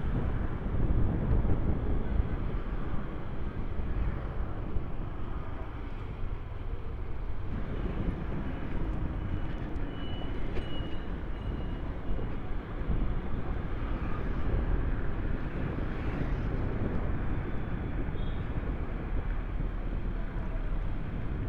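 Steady wind and road noise from riding an Ola S1 Pro electric scooter along a road.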